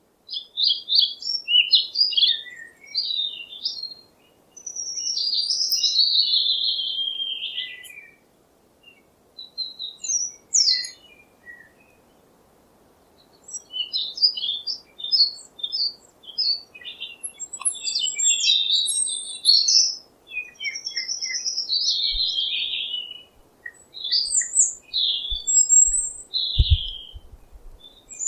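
Songbirds singing and chirping in quick, varied warbled phrases, with brief pauses between bursts. A few low thumps come near the end.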